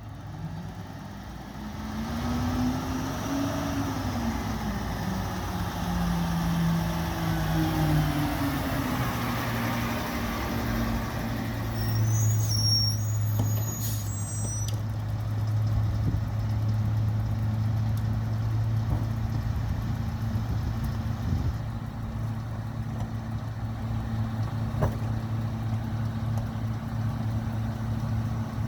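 Mack Granite garbage truck's diesel engine running, its pitch rising and falling for the first ten seconds or so, then settling into a steady drone from about twelve seconds in. A few short high squeaks sound as it settles.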